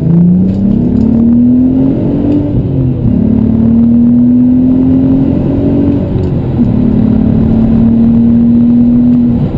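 Golf R32's 3.2-litre V6 heard from inside the cabin through a non-resonated Milltek sports cat-back exhaust, accelerating through the gears. The engine note rises, drops at a gear change about three seconds in, rises again, and after a second shift around six seconds settles into a steady cruising drone.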